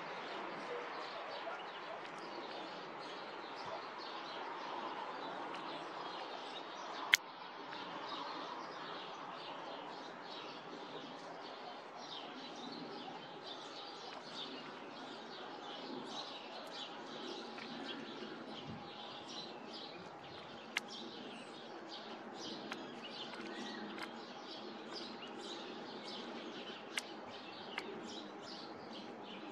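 Small birds chirping again and again over a steady background hiss. A single sharp click about seven seconds in is the loudest sound, and a few fainter clicks follow later.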